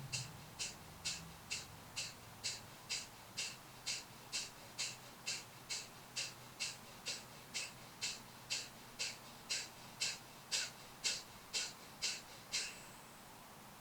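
Kapalabhati breathing: a rapid series of short, forceful exhalations puffed out through the nose, a little over two a second, with the inhales passive and unheard. The series stops near the end, closing a round of about 30 expulsions.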